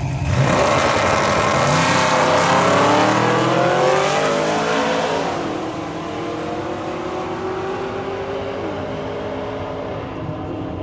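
Drag car launching and accelerating hard down the strip, its engine note rising. The pitch drops at two upshifts, about five seconds in and again near the end, and the engine grows quieter after the first shift.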